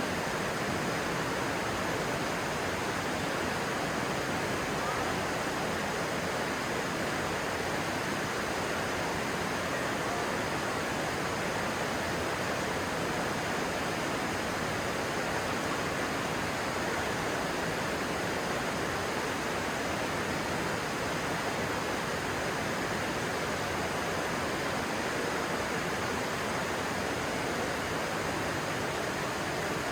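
Stream water rushing steadily over its bed, an even, unbroken noise.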